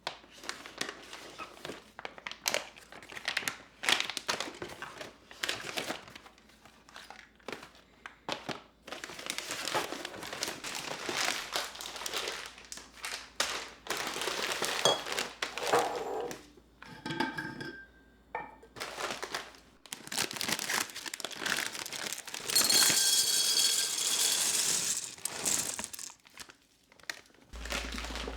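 Crinkling and rustling handled by hand in irregular bursts, loudest for a few seconds about three-quarters of the way through.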